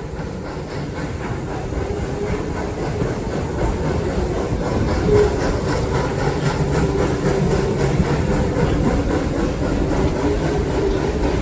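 Steam train rolling along the track, heard from on board: a steady rumble of the cars with wheels clacking over the rail joints, gradually getting louder.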